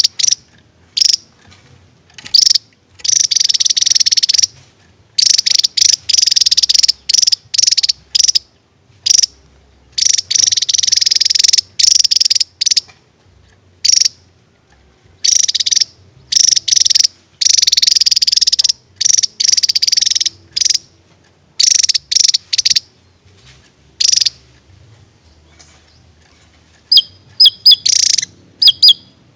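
Javan tesia singing: rapid, high-pitched song delivered in repeated bursts of one to two seconds with short pauses between them, breaking into a string of short separate notes near the end.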